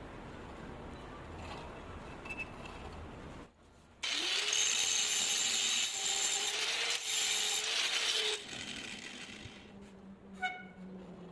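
A power tool runs on metal work for about four seconds, starting and stopping abruptly, with a steady bright hiss and a held tone.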